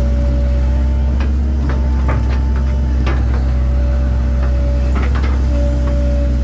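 A 1997 Link-Belt 2700 excavator's diesel engine running steadily, with a higher whine that switches on and off as the machine works. Scattered sharp knocks and cracks sound over it.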